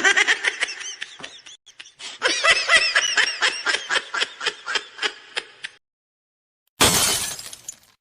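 High-pitched laughter sound effect: a long run of quick, squeaky giggles, several a second. A short burst of noise follows about a second after the laughter stops.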